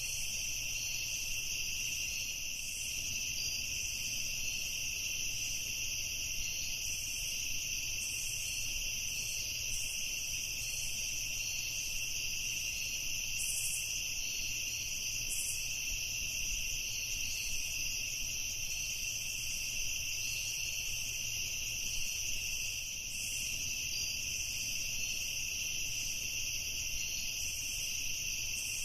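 Evening chorus of crickets: a steady, continuous high trilling at a few pitches, with a faint low rumble underneath.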